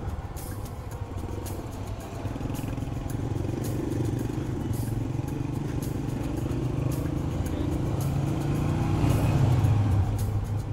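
Honda motorcycle engine running at low road speed, swelling a little around nine seconds in and easing off about a second later.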